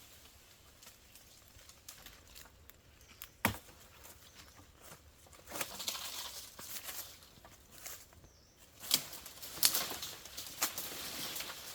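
Irregular rustling with scattered sharp clicks and snaps. The loudest is a single crisp crack about a third of the way in, and a cluster of louder snaps and rustles comes near the end.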